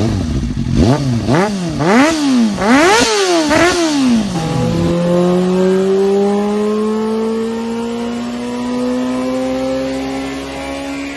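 Inline-four superbike engine blipped hard about six times in quick succession, each rev shooting up and dropping straight back. About five seconds in, after a cut, an engine holds a steady note with revs climbing slowly and evenly, like a superbike pulling under load on a dyno.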